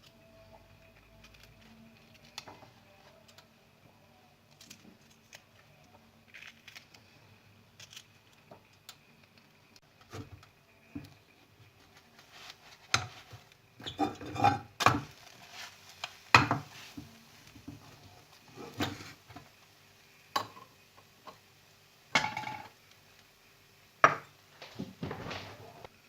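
Kitchen dishes and utensils clinking and knocking: a few small clicks at first, then a run of louder sharp clinks and clatters through the second half.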